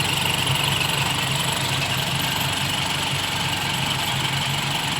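Toyota Kijang petrol engine idling steadily and fairly smoothly, just after its distributor timing and contact-point gap were adjusted.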